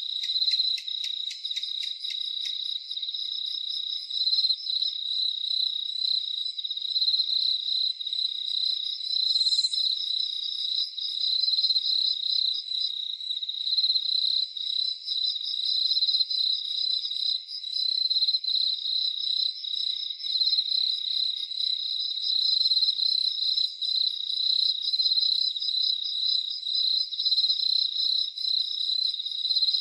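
Crickets chirping in a steady, high, finely pulsing trill, with a quick run of faint ticks in the first couple of seconds.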